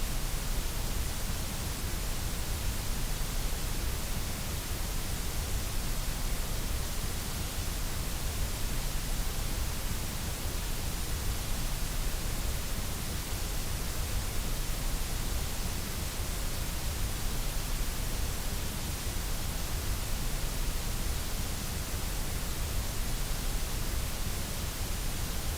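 Steady white noise: an even, unbroken hiss with a deep rumble underneath, holding the same level throughout.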